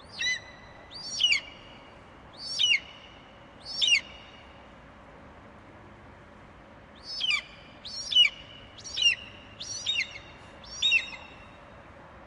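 Eagle calling: two series of short, high-pitched screeching calls, each call sweeping up and down, four in the first run and five more after a pause, about a second apart.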